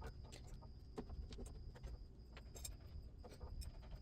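Faint, irregular small clicks and taps of a model locomotive's truck and gear parts being handled and worked on, over a low steady hum.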